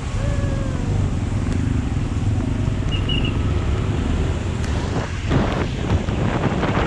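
Steady low rumble of road and wind noise from a vehicle travelling a highway in the rain. In the first second a pitched engine tone falls in pitch, and in the second half gusty hissing bursts come in.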